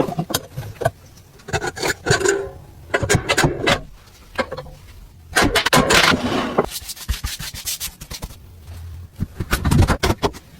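Hand rubbing on an old object being cleaned up, in irregular strokes of about half a second to a second, with a few sharp clicks between them.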